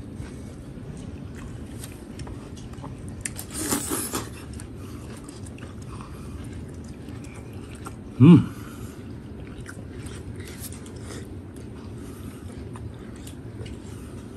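A man chewing soft stewed beef close to the microphone, with wet smacking clicks throughout. There is a breathy burst about four seconds in, and a short, loud hum of the voice just past eight seconds.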